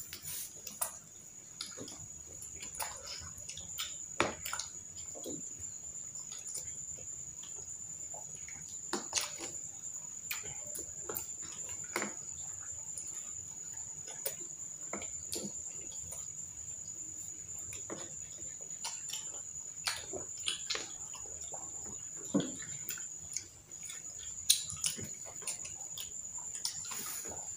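Mouth sounds of eating street food: irregular wet chewing and smacking, with forks and skewers clicking against food and a plastic container. A steady high-pitched tone runs underneath.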